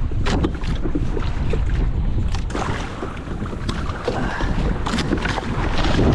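Wind buffeting the microphone in a steady low rumble, with water splashing and slapping against a kayak's hull.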